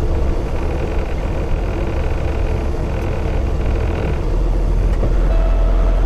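Heavy diesel truck engine running steadily, its low rumble growing heavier about four seconds in.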